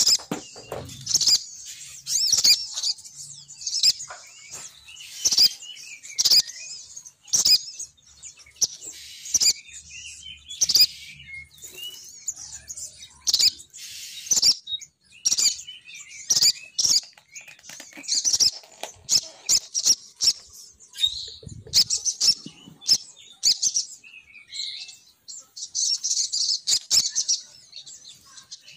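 Sogon birds chirping in fast, high-pitched bursts of repeated notes with short warbling phrases in between: a female sogon's call used as a bird lure.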